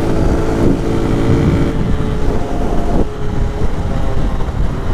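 Lifan KP motorcycle engine running at road speed, its note shifting in pitch a couple of times, under heavy wind rush on the rider's microphone.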